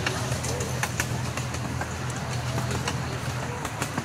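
Amusement-park ride train running with a steady low engine hum, scattered clicks and rattles from the cars on the track, and faint rider voices in the background.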